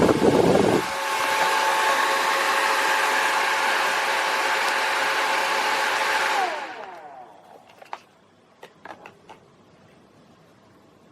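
Brushless-motor clothing fan whirring at speed, with a heavier rush of air that drops away about a second in. A little past halfway it is switched off and spins down with a falling whine, followed by a few small clicks.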